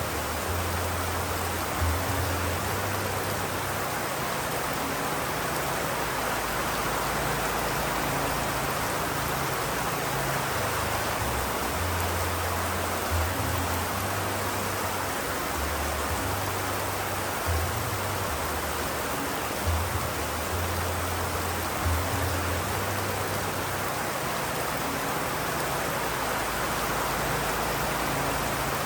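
Steady rain, a dense even hiss, with a low hum that comes and goes underneath.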